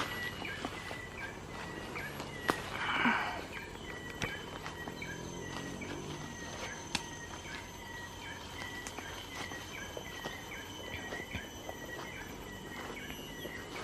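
Outdoor night ambience: a small animal's short chirp repeats steadily about twice a second, with a few sharp clicks and a brief rustling rush about three seconds in.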